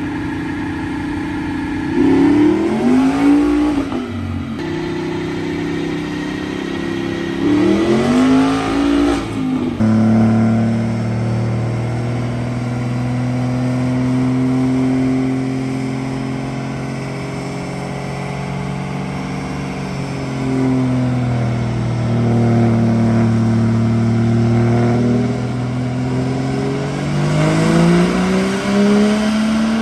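A motor vehicle engine revving: two quick revs rising and falling in pitch, then held at a fairly steady speed for a long stretch, and climbing again near the end.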